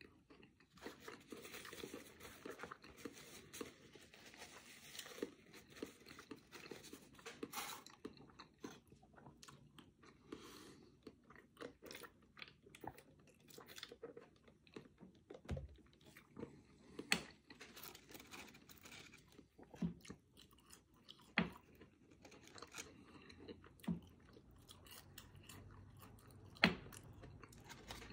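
Close-miked chewing of a bacon cheeseburger (Wendy's Baconator), wet and crunchy, dense for the first ten seconds or so. Then quieter, with a sip of soda and a few sharp mouth clicks.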